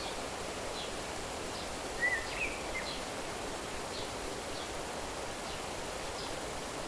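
Outdoor nature ambience: a steady rushing background noise with short high chirps repeating about every half second. About two seconds in, a louder bird call of a few quick notes stands out.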